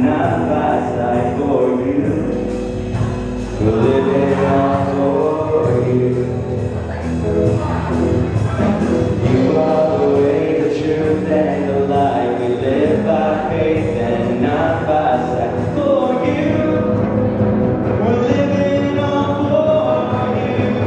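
An upbeat worship song played by a band, with many voices singing along together, loud and continuous.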